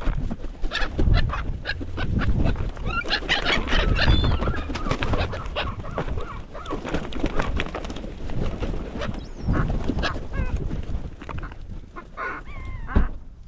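A crowd of seagulls calling and squabbling over scraps of food in a feeding frenzy, with many overlapping short calls, busiest a few seconds in.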